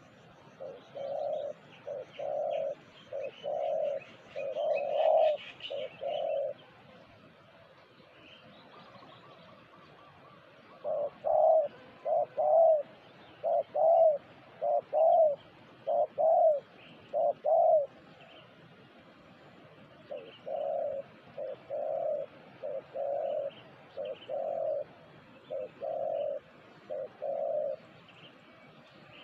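Spotted dove (terkukur) cooing: three bouts of repeated, rounded coo notes, each bout lasting several seconds with short pauses between. Faint chirping of small birds underneath.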